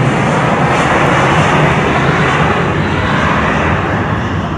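Jet noise from an Embraer E195LR's twin General Electric CF34-10E turbofans on takeoff: a loud, steady rushing noise with a deep rumble underneath, easing off slightly toward the end.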